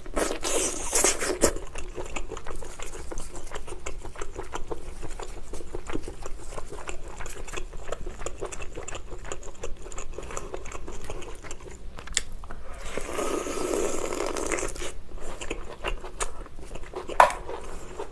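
Close-miked chewing of lobster: a dense run of small clicks and crackles, with a louder, noisier stretch lasting about two seconds some 13 seconds in.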